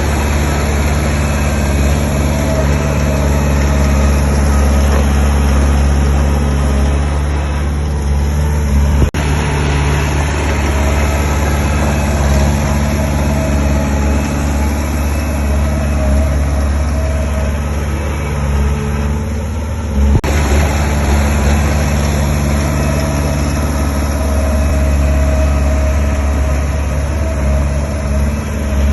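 Diesel engine of heavy construction machinery running steadily with a constant low drone.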